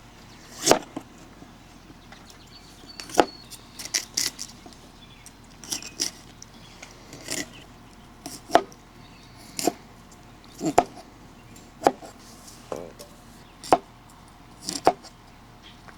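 Knife chopping broccoli on a board: slow, irregular sharp knocks, roughly one a second.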